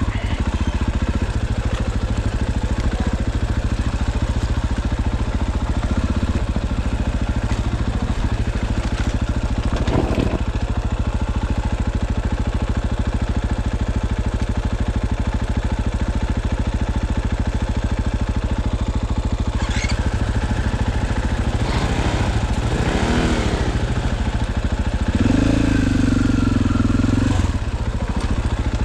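Dirt bike engine running steadily, with a brief clatter about ten seconds in. In the last third its note wavers up and down, then rises in level for a couple of seconds.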